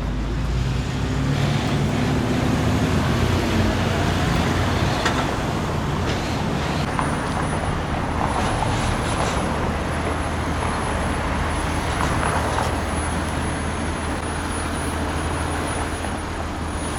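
Steady road traffic noise: cars and trucks rumbling past on a busy street. A thin high-pitched whine joins about seven seconds in.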